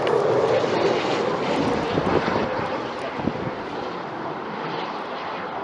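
Jet noise from a Eurofighter Typhoon's twin turbofan engines just after touchdown, a steady rush that slowly dies away as the fighter rolls out on the runway.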